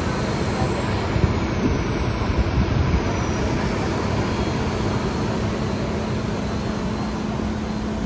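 Mumbai local electric train running, heard from inside the passenger coach: a steady rumble and rush of the moving train with a constant low hum, and a few low knocks about one to three seconds in.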